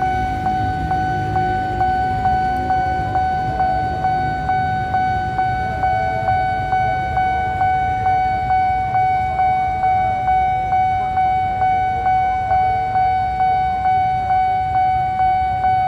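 Railway level-crossing warning bell ringing on and on in a steady pitched ding, about two strikes a second, over a low rumble.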